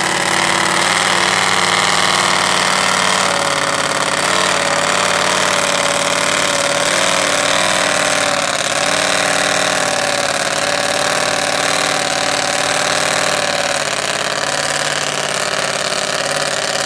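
Vehicle engine idling steadily, its pitch wavering slightly.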